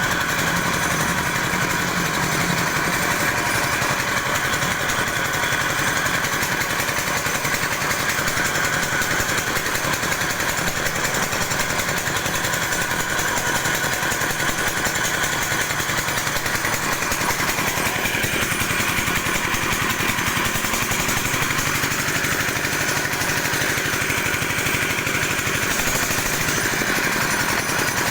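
Vertical flat-die pellet mill (D26 die, 4 mm holes) running on test, with a steady, dense mechanical rattle and a whine that fades about halfway through.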